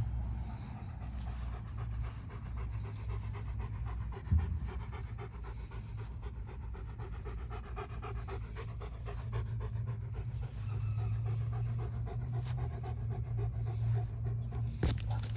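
A dog panting rapidly and steadily over a low rumble, with a single short thump about four seconds in.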